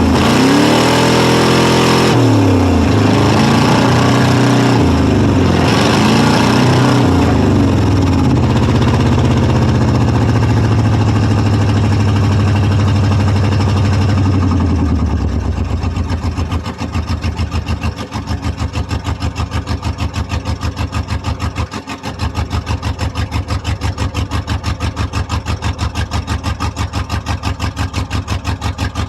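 1995 Ford F150's 5.8-litre (351) V8 revved up and let fall several times, then, about halfway through, settling into a rough, lumpy idle that pulses unevenly: it is misfiring, with two cylinders not firing.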